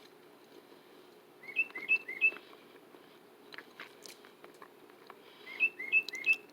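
Tufted titmouse whistling its song: two runs of three quick two-note phrases, about four seconds apart, with a few faint clicks between them.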